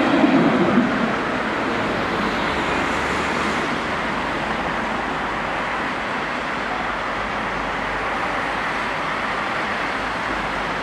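A passing train's rumble that fades out about a second in, leaving a steady even background rumble with no distinct events.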